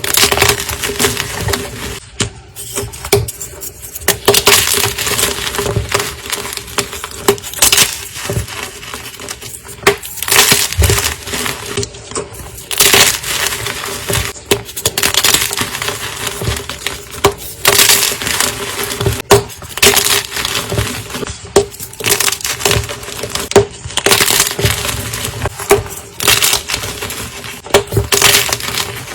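Blocks of gym chalk being crushed, giving crisp, crunchy crumbling in repeated bursts of crackling that come one after another.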